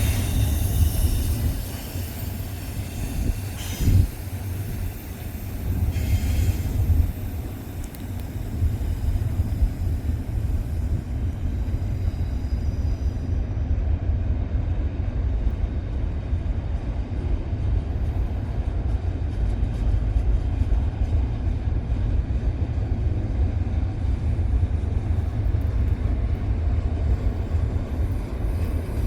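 Freight train rolling past with a steady low rumble of wheels on rails, and a single sharp clank about four seconds in.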